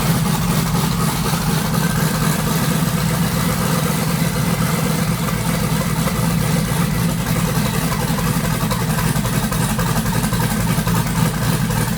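Twin-turbo 5.3-litre LS V8 of a Chevrolet Silverado idling steadily just after starting up. It is running rich, which the owner puts down to leftover fuel on the fuel rails and lines probably still burning off.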